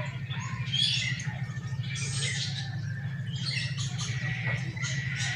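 Siamangs calling: repeated harsh, shrill squawking calls, several overlapping, over a steady low hum.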